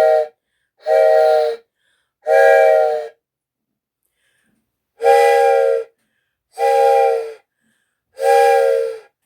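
Hand-blown train whistle sounding a chord of several tones at once, in two groups of three short blasts with a pause of about two seconds between the groups.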